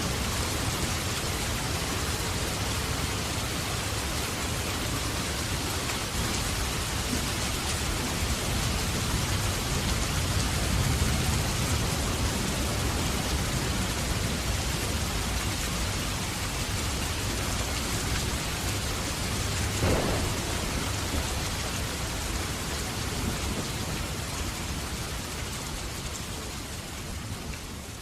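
Heavy rain falling steadily with a low thunder rumble that swells and eases around the middle, and a brief sharp crack about twenty seconds in. The sound fades out near the end.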